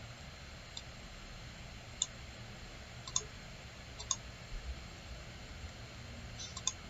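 Computer mouse buttons clicking, a handful of short sharp clicks at irregular intervals, over a faint steady room hum.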